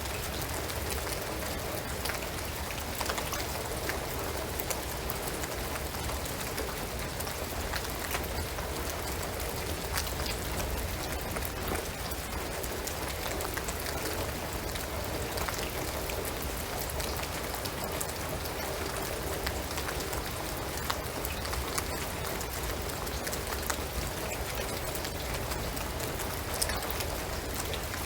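Steady rain falling on a shingled roof and pine trees, an even hiss scattered with many sharp individual drop ticks.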